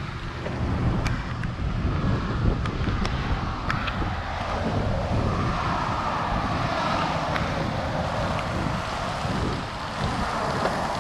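Wind rumbling on an action camera's microphone during a mountain bike ride, with a few sharp clicks and knocks from the bike over the trail.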